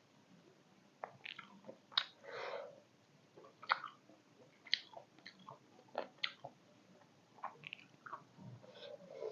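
Close-miked chewing of beef momo dumplings: irregular short wet mouth clicks and smacks, with a longer breathy patch a little over two seconds in.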